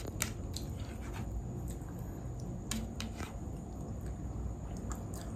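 A person eating fried rice and chicken curry: quiet chewing and mouth sounds with a scattering of short, faint clicks.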